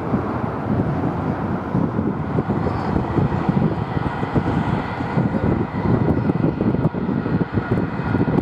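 Jet airliner engine noise: a steady rough rumble with a faint high whine.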